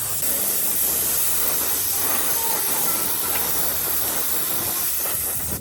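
A steady, loud hiss of a spray, most of its energy high-pitched.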